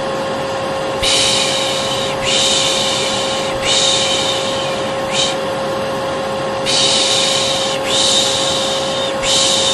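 Vacuum cleaner running with a steady hum, under a person's repeated 'shh' shushing ('piş piş'), the way a baby is soothed. Most shushes are about a second long, with a few short ones between them.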